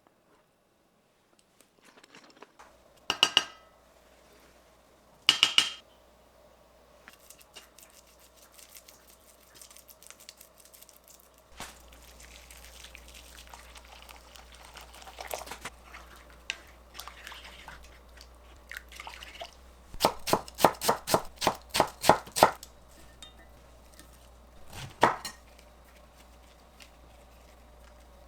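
Kitchen utensils knocking against dishes: two loud ringing clinks a few seconds apart, then a quick run of about a dozen sharp knocks, and one more clink.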